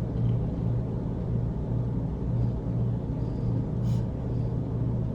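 A steady low hum that swells and fades at an even rate, with a brief click about four seconds in.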